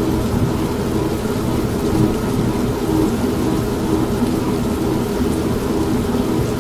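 An old manual washing machine running steadily with a low hum, mixed with continuous rain and rumbling thunder.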